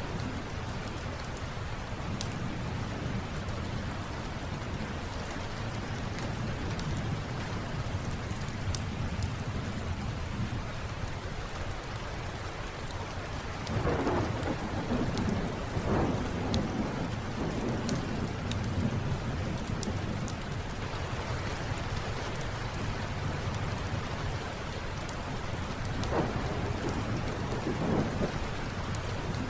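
Steady rain falling, with low rolls of thunder swelling twice about halfway through and twice near the end. Small sharp crackles from a wood fire in a fireplace pop here and there over the rain.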